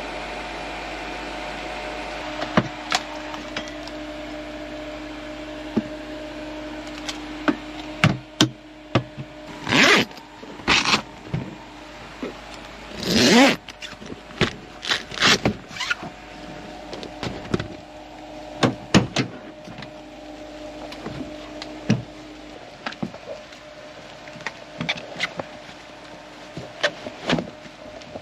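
Rain on a fabric truck-bed topper heard from inside: a steady hiss with a fan humming, then irregular sharp taps of heavy drops hitting the fabric from about eight seconds in, with a few louder rushing swells.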